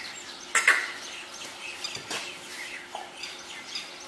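Small birds chirping now and then in the background, with one loud, sharp sound about half a second in.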